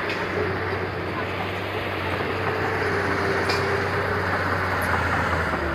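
Heavy diesel engine of earthmoving or truck equipment running steadily under work, with one sharp clank about three and a half seconds in.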